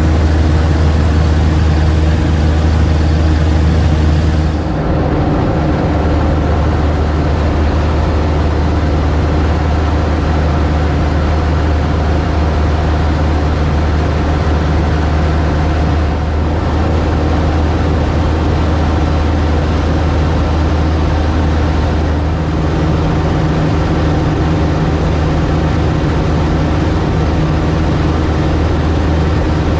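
Cub light aircraft's piston engine and propeller droning steadily in cruise flight. About four and a half seconds in the sound shifts slightly, a little quieter and duller, then holds steady.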